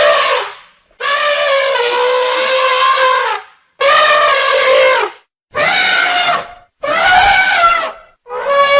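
A series of loud, drawn-out animal calls, about six of them, each a clear held tone lasting one to two and a half seconds, separated by short silent gaps.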